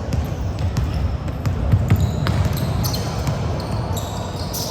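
Basketball game on an indoor court: the ball bouncing on the hardwood, with sharp knocks, and short high sneaker squeaks in the second half over a steady low rumble.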